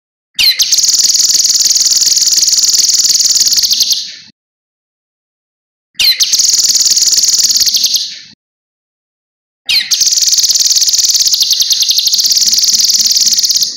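Cucak kinoi song: three long, rapid high-pitched trilling phrases, each a few seconds long, separated by silent pauses of about two seconds.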